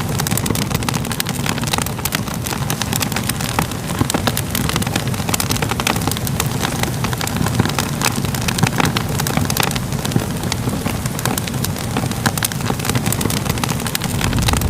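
Fire crackling: a steady low rumble with frequent irregular pops and crackles.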